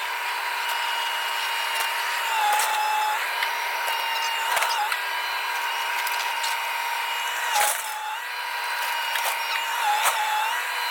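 Power tool motor running with a steady high whine whose pitch dips briefly every couple of seconds as it takes load, with scattered knocks.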